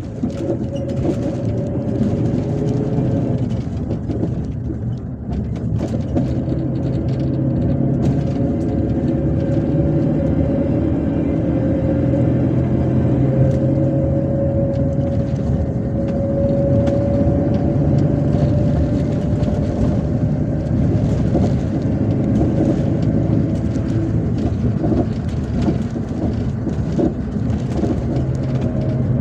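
MAZ-257 bus under way, heard from inside the passenger cabin: engine and drivetrain running steadily over road noise. A whine rises gently in pitch through the middle and then levels off.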